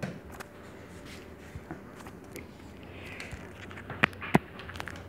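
A chihuahua puppy playing with its chew toys: scattered small clicks and scrapes, with two sharp clicks about four seconds in.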